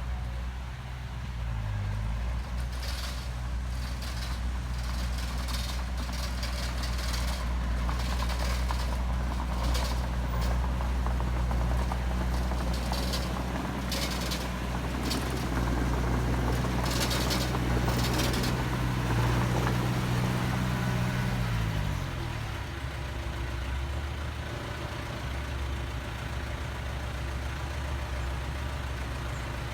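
Heavy diesel engine of earthmoving machinery running steadily, with short bursts of clanking and hissing through the first two-thirds. About 21 seconds in, the engine speed drops and it settles to a lower idle.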